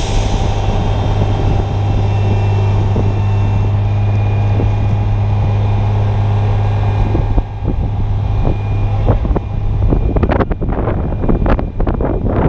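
An engine running steadily at an even pitch, then wind buffeting the microphone in uneven gusts from about eight seconds in.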